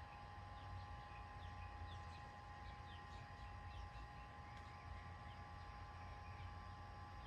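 Faint outdoor garden ambience: small birds chirping often in short falling notes, over a steady low rumble and a faint steady hum.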